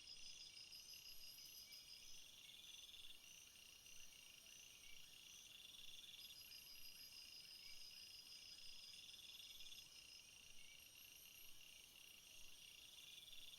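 Several field insects chirping at once, faint and high-pitched: overlapping trains of rapid pulses, some steady and some in bursts of a second or two that recur every few seconds.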